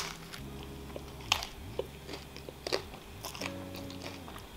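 Close-up eating sounds: a person chewing a mouthful of soft flour-tortilla wrap with lettuce, with a few sharp crunchy clicks scattered through.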